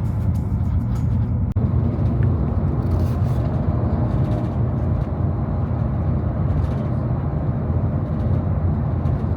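Steady low rumble of a road vehicle in motion, heard from inside, with a brief drop about a second and a half in.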